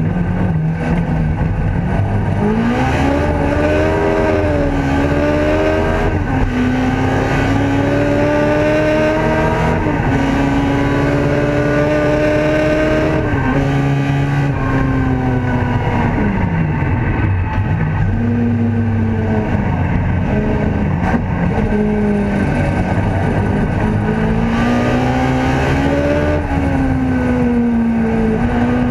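Ford Escort race car's engine heard from inside the cabin at racing speed, its pitch climbing under acceleration and dropping sharply at each gear change. About halfway through the pitch falls away steeply, then rises and falls in several short steps before climbing again.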